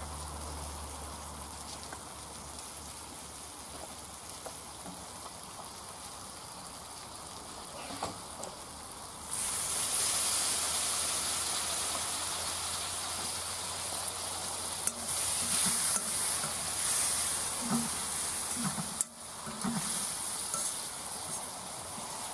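Tomato curry sizzling in a wok; about nine seconds in, water goes in to stop the sauce catching and the sizzle jumps to a much louder hiss with steam. Through the second half a metal spoon scrapes and stirs the pan.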